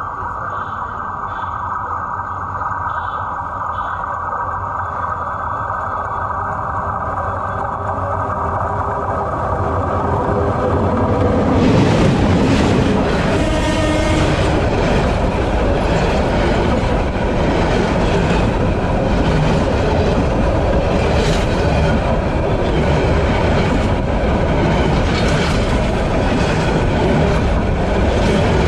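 GM-EMD GT18LA-2 diesel-electric locomotive hauling a metre-gauge passenger train, growing steadily louder as it approaches. About twelve seconds in it rolls directly over the microphone between the rails. Its coaches follow, with the clack of wheels over the rail joints.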